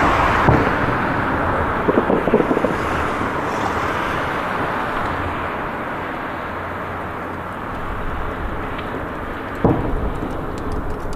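Distant fireworks going off: sudden booms about half a second in, a quick cluster of pops around two seconds in, and a sharper bang near the end, over a steady rumble that slowly fades.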